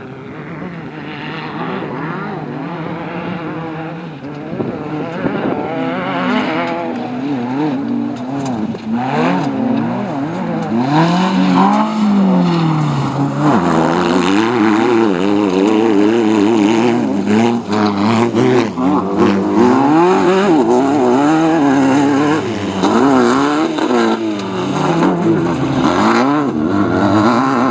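Volkswagen Baja Bug off-road race car engine revving up and down under hard throttle, its pitch rising and falling every second or two. It grows louder over the first dozen seconds, and a few sharp rattles or knocks come in near the middle.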